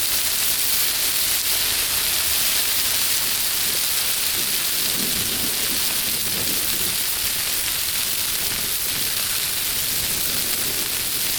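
Steady hiss of rain falling, mixed with vegetables and oil sizzling on a hot flat-top griddle.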